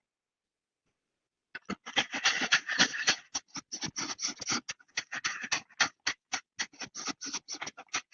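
Rapid, choppy scratching and rustling, heard in short irregular bursts several times a second, cut in and out sharply as if by a noise gate. It starts after about a second and a half of dead silence.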